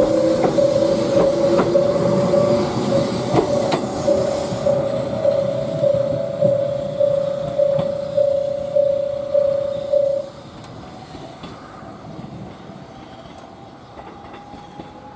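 Kōnan Railway 7000-series electric train pulling away, wheels clacking over rail joints, with a steady pulsing alarm tone that cuts off suddenly about ten seconds in; after that only the faint running of the receding train remains.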